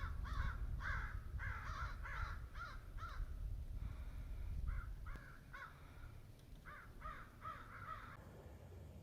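Crows cawing in bouts of harsh calls, about three a second, with a pause around three seconds in before two more shorter bouts. A low rumble runs underneath.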